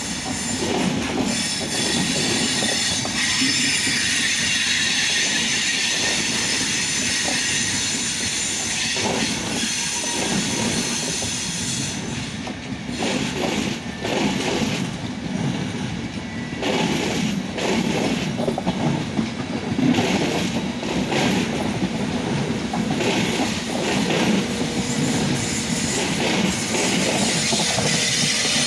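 Passenger train of coaches running past on the adjacent track, wheels clattering rhythmically over the rail joints, with a high wheel squeal over the first several seconds. Near the end the electric locomotive draws level.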